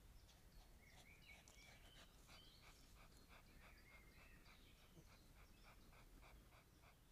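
Faint birdsong: high twittering chirps, joined about two and a half seconds in by a fast, even run of short ticks, about four or five a second, that carries on to the end.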